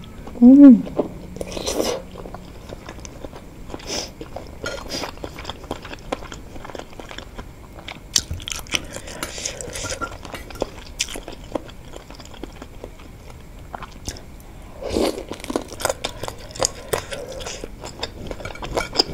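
Close-up eating sounds: chewing and biting into wontons filled with crunchy chicken cartilage, with many small wet mouth clicks. A short hummed voice sound rises and falls about half a second in, and the chewing grows louder around fifteen seconds in.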